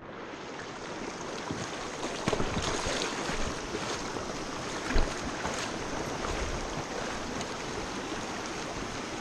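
River current rushing steadily over a riffle, with a few short knocks and splashes, the loudest about five seconds in.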